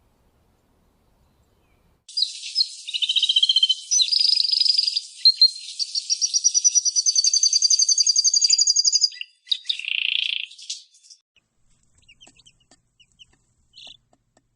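A small songbird singing a long, high warbling song made of fast trills. It starts about two seconds in and stops after about nine seconds, followed by a few faint chirps.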